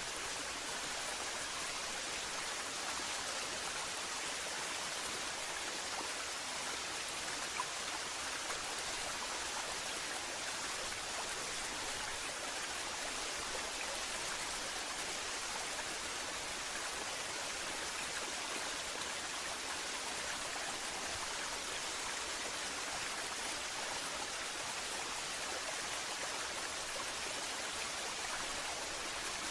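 Waterfall: water falling and splashing in a steady, even rush, with a couple of faint ticks of droplets a little before the middle.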